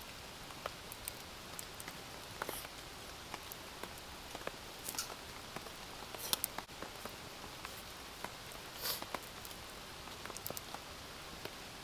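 Steady rain falling, an even hiss, with a handful of sharper taps scattered through it.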